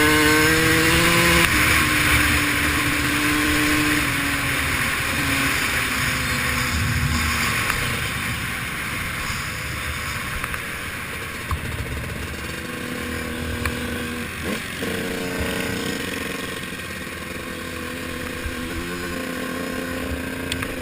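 Dirt bike engine revving up, its pitch rising, then running on more steadily and easing off, with wind and gravel noise; it is loudest at the start and quieter in the second half.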